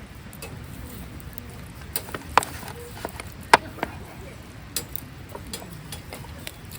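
Scattered sharp clicks and light knocks at uneven intervals, over a low steady background.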